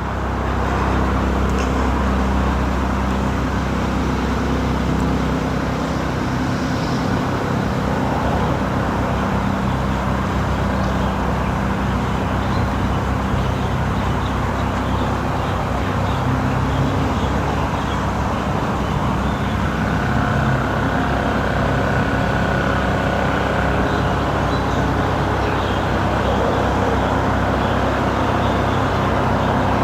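Steady vehicle engine noise with a continuous rushing hiss over it. The deepest part of the hum drops away about five seconds in.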